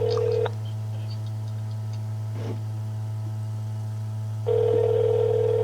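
Telephone ringback tone heard over the line while a call rings out unanswered: one ring ends about half a second in, and after about four seconds of hum the next ring of about two seconds begins. A steady low electrical hum runs underneath.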